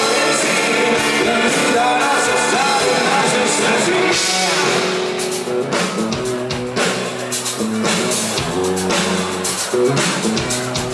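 Rock band playing live: electric guitars and a drum kit, the drum hits standing out more from about five seconds in.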